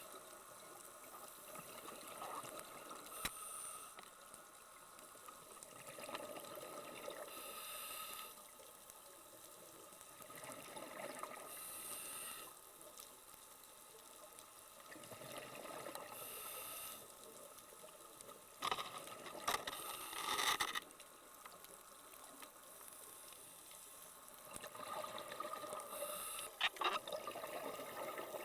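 Underwater sound of a scuba diver breathing through a regulator: bursts of exhaled bubbles hiss about every four seconds over a steady water wash. A few sharp clicks come in the second half.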